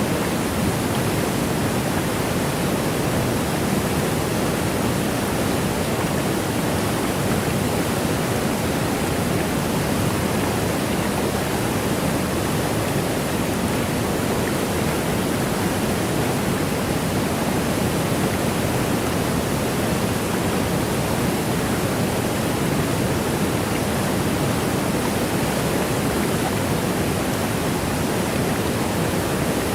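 Waterfall: a steady, unbroken rush of falling water, weighted toward the low-middle range, with no change in level or character.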